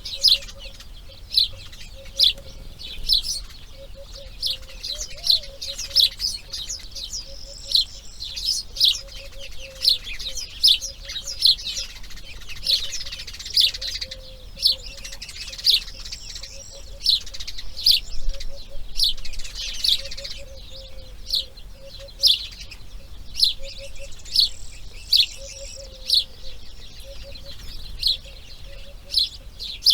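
Birds chirping: short, sharp, high calls about once a second, with denser chattering between them and a faint low pulsing call underneath.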